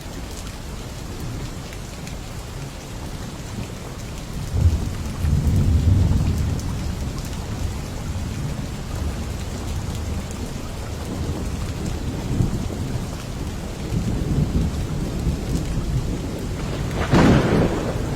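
Steady rain falling, with thunder rumbling through it. There is a long low roll about a third of the way in and a sharper, brighter thunderclap near the end.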